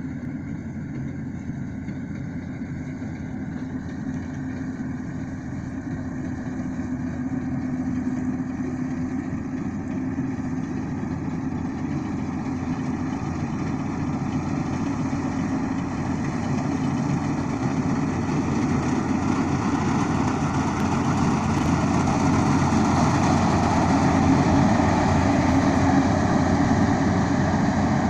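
Rice combine harvester's engine running steadily, growing gradually louder over the stretch.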